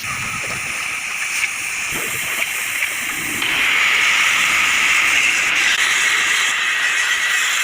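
Steady hissing from metalwork with a gas cutting torch or welder, louder from about three and a half seconds in.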